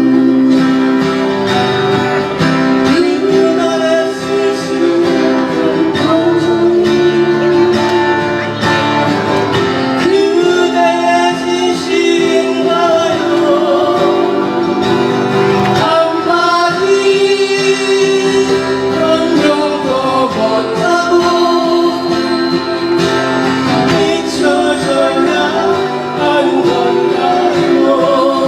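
Acoustic guitars playing a slow Korean ballad with a voice singing the melody over them.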